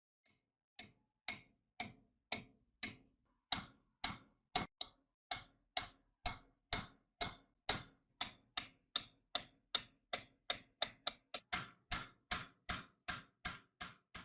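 Hand tool work on a rusted iron wrench: a steady run of short, sharp strokes, about two a second, quickening to about three a second in the second half.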